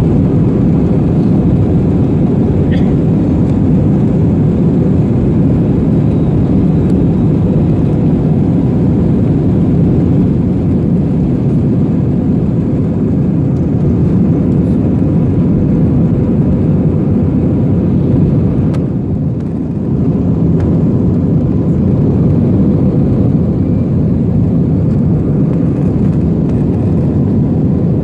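Steady loud drone of engine noise heard inside the cabin of an Airbus A321-231 airliner, with a brief dip in loudness about two-thirds of the way through.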